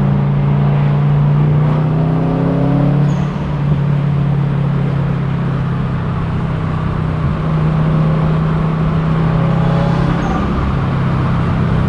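Car engine running through an Invidia N1 exhaust fitted with its bolt-in baffles: a steady low drone whose pitch rises twice as the engine revs up, once near the start and again near the end.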